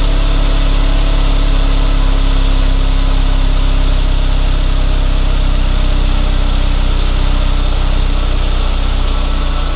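Audi TT's 1.8-litre turbocharged four-cylinder engine idling steadily.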